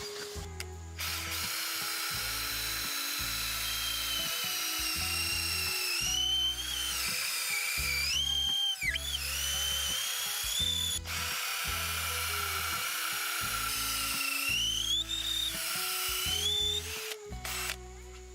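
Power drill running in long spurts, its whine rising and falling in pitch as the load changes, over background music with a steady bass beat.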